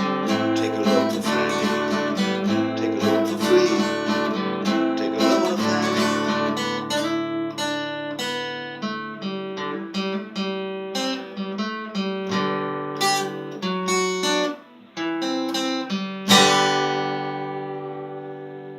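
Acoustic guitar strummed, closing the song: the chords come thick at first and grow sparser, and after a brief pause a final chord about sixteen seconds in rings out and fades.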